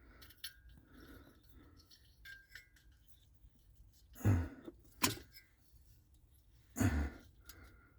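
Light clinks and rattles of small metal parts and fittings being handled while a diesel heater is put back together, with a sharp click about five seconds in. Two louder short noises stand out, about four and seven seconds in.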